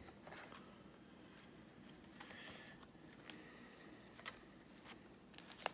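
Faint handling of trading cards and pack wrappers: a few light clicks and rustles over near-silent room tone, the sharpest click about four seconds in.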